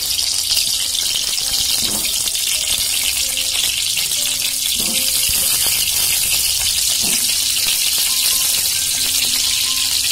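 Wet whole lemons sizzling in hot sesame oil in a steel pan, a steady high hiss. A few soft knocks as more lemons are set down in the pan.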